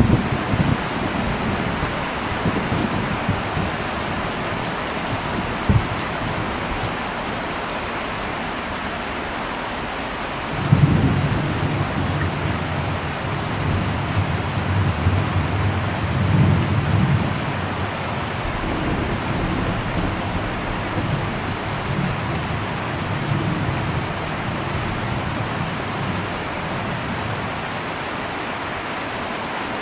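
Heavy rain falling steadily on an old metal roof. A low rumble of thunder starts suddenly about a third of the way through and swells on and off for several seconds before dying back into the rain.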